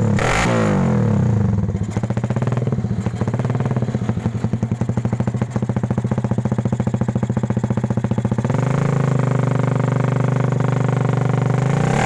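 Suzuki Satria FU's single-cylinder four-stroke engine running through a new aftermarket exhaust: a rev that falls back about a second and a half in, then idling with a rapid, even pulse, rising to a steady higher engine speed about two-thirds of the way through.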